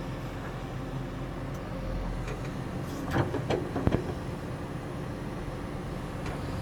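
CAT 330F excavator's diesel engine running steadily, with a short bout of rattling and a few sharp clanks about three to four seconds in.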